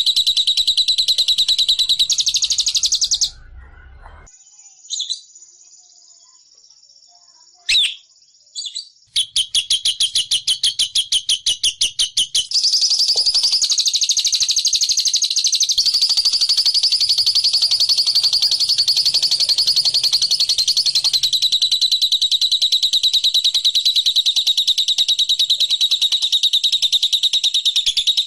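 Small songbird's high-pitched trilling song, a dense run of rapid chirps, played as a lure call to provoke other birds into singing. It breaks off about three seconds in, leaving a few lone chirps, resumes near nine seconds as quick separate chirps, then runs into a continuous trill.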